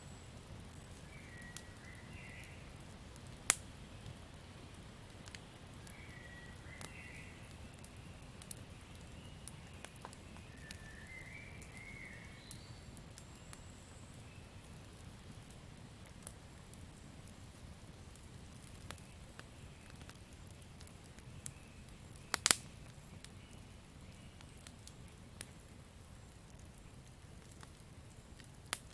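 Campfire crackling over a low steady rumble, with scattered sharp pops, two of them much louder, about 3.5 s and 22 s in. A few short chirping calls from the night forest sound in the first dozen seconds.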